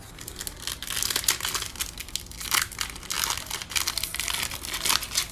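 A trading-card pack wrapper being torn open and handled, a dense run of crackly rustling starting about half a second in.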